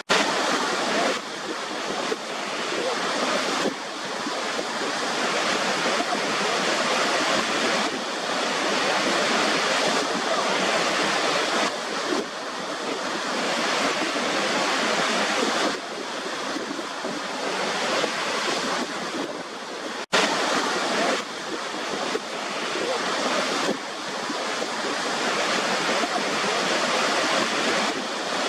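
Waterfall: a steady, full rush of falling water, its level shifting abruptly several times, with a split-second dropout about twenty seconds in.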